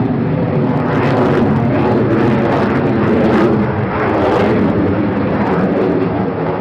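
Aircraft engine noise, loud and steady, with several steady tones layered over a rough rumble.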